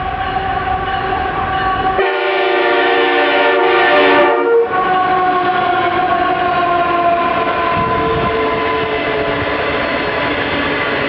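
Ore train's locomotive horn sounding one long, several-toned blast as the train passes, loudest about four seconds in.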